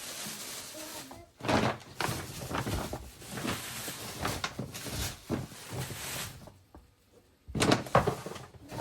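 A string of irregular knocks, bumps and scraping clatters of household objects being handled, loudest about a second and a half in and again near the end.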